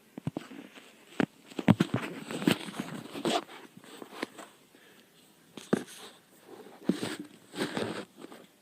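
Irregular handling noises: sharp clicks and knocks mixed with rustling, in two bursts with a short lull between.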